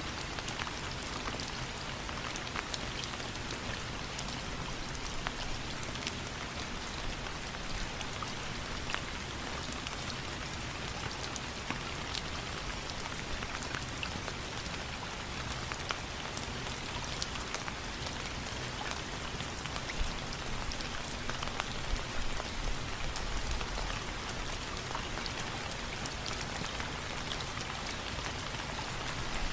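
Steady rain falling, an even hiss dotted with many small sharp ticks.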